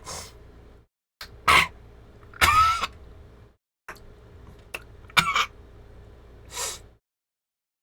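A man's short non-word vocal reactions: about half a dozen brief grunts, exhales and cough-like bursts, one of them a drawn-out voiced cry with a bending pitch. They are broken by gaps of dead silence.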